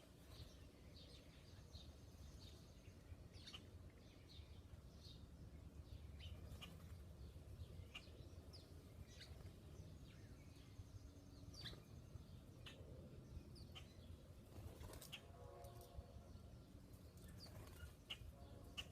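Faint, scattered chirps and short calls of small songbirds around a backyard feeder, over a steady low background rumble. About fifteen seconds in there is a brief lower-pitched sound made of several tones.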